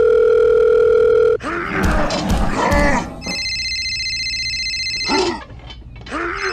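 A loud, steady electronic-sounding tone for about a second and a half, then a short gruff voice-like sound, then a steady high-pitched tone for about two seconds.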